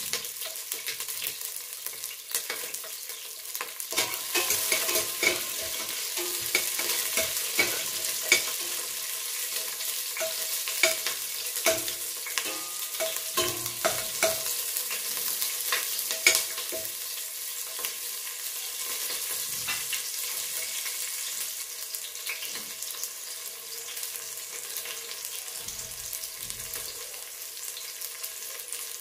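Whole green chillies and chopped ginger sizzling in hot oil in a stainless steel pot, a steady hiss with scattered crackles. Through the first half a spatula stirs them, scraping and knocking against the pot in a run of sharp clicks.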